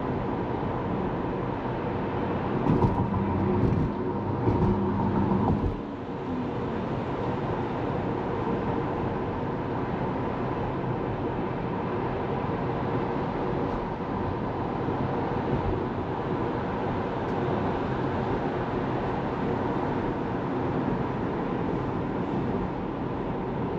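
Road and tyre noise heard inside the cabin of a Tesla Model 3 on the move, a steady rushing hum with no engine note. A few seconds in it grows louder, then drops back abruptly about six seconds in.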